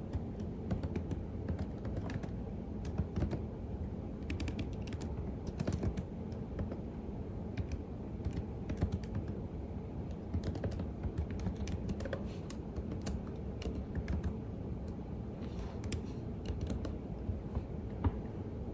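Typing on a computer keyboard: irregular runs of keystroke clicks, with brief pauses between bursts, over a steady low hum.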